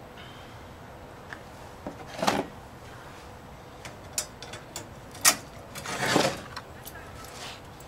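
Scattered light knocks and clicks of steel pieces being handled in a workshop. There is a louder knock about two seconds in and a short scrape about six seconds in.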